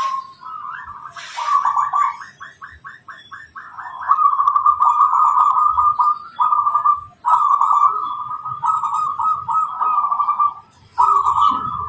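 Zebra dove cooing: a run of quick, clipped notes about two seconds in, then long rolling trilled coos, broken by short pauses.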